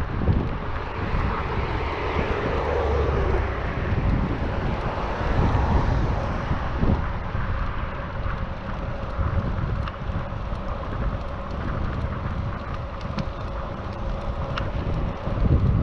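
Wind buffeting the action camera's microphone on a moving bicycle, a steady rumbling rush. A broader swelling noise, like a passing vehicle, rises and fades in the first few seconds.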